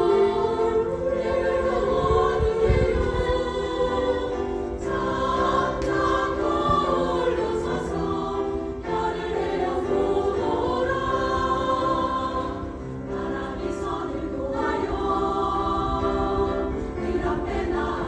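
Choir singing in sustained, many-voiced phrases, with short breaths between phrases about every four seconds.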